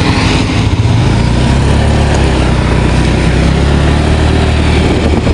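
A vehicle engine running steadily, a low hum under an even rushing noise.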